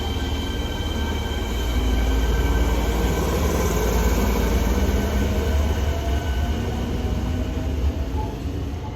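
Fukuoka City Subway 1000N series train moving through a station, giving its jet-aircraft-like whine: several steady high tones and slowly gliding ones over a low rumble. The rumble swells through the middle and eases off near the end.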